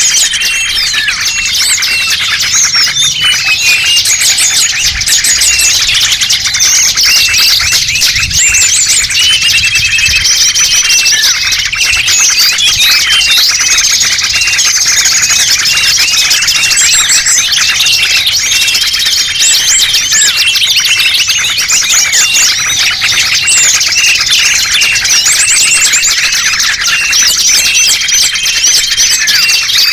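Dense, continuous chorus of many small songbirds chirping, twittering and trilling over one another. It is a pikat bird-lure recording, meant to draw small wild birds in.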